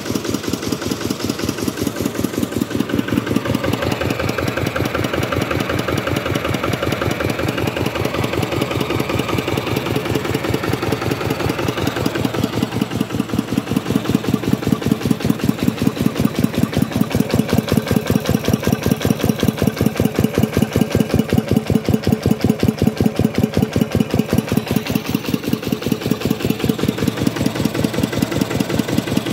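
Kubota RK125 single-cylinder diesel engine running with a steady, even firing beat. It grows somewhat louder about halfway through.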